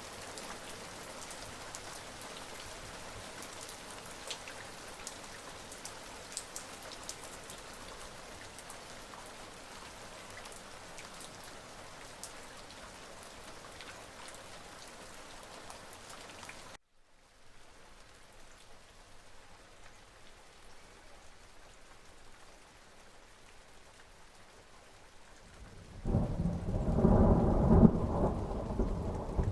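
Steady rain with scattered drop ticks, which cuts off abruptly about halfway through and resumes as softer rain. Near the end a loud thunderclap breaks in and rumbles on.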